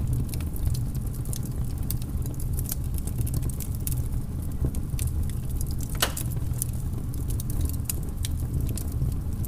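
Wood bonfire crackling and popping: many sharp, irregular snaps over a low steady rumble, with one louder pop about six seconds in.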